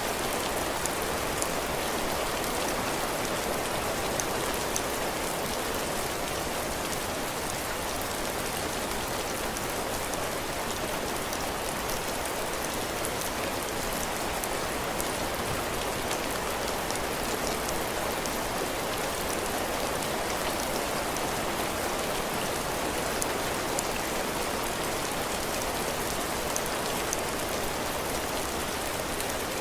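Heavy rain falling steadily on a cabin porch roof and the ground, a dense even hiss with fine individual drop ticks scattered through it.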